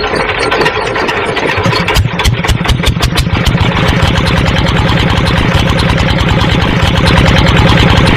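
A small motor-driven machine running with a fast, even, rhythmic chugging that grows louder about two seconds in.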